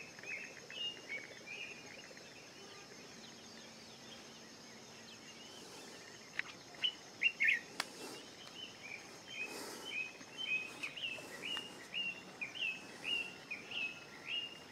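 A bird calling a rapid series of short, repeated hooked notes, pausing for several seconds in the middle, over a faint steady high-pitched hum. There are one or two sharp clicks about eight seconds in.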